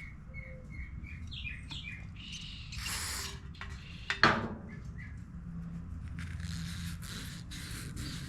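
Birds chirping, a quick series of short high chirps in the first second or so. About three seconds in there is a brief hiss, and just after four seconds a sharp click, the loudest sound. Patchy hissing noise follows in the later seconds.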